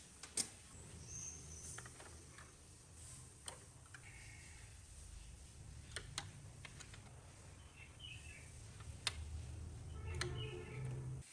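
Sparse sharp clicks and taps from work on small parts, about five of them, with the loudest near the start. A low steady hum runs underneath, and birds chirp faintly in the background.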